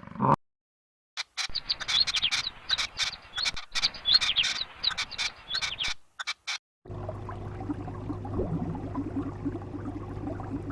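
Birds chirping rapidly, many quick downward-sweeping notes and clicks for about four seconds, after the tail of a roar at the very start. From about seven seconds in, a steady low hum with hiss takes over.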